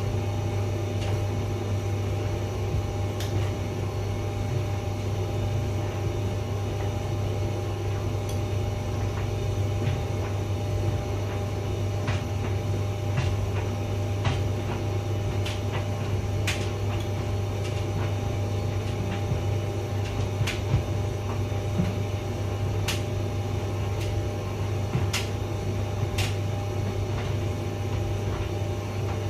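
Hotpoint vented tumble dryer running: a steady low motor-and-fan hum with the drum turning, and irregular sharp clicks every second or two.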